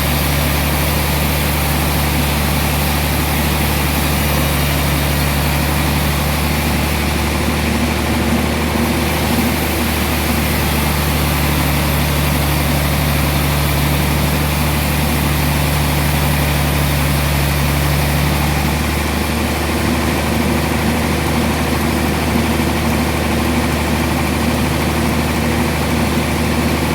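Sawmill machinery running steadily with a constant low hum; the pitch of the hum shifts slightly about two-thirds of the way through.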